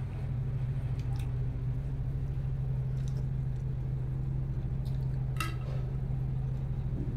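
Chewing of skewered fried snacks (chicken sempol and rolled-egg skewers), with a few short clicks and a sharper click about five seconds in, over a steady low hum that is the loudest sound.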